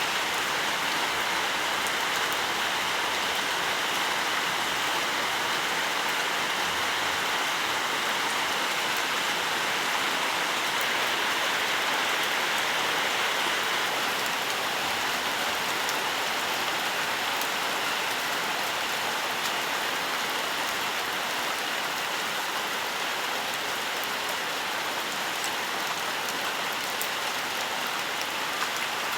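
Steady rainfall: an even hiss of rain with faint, scattered drop ticks.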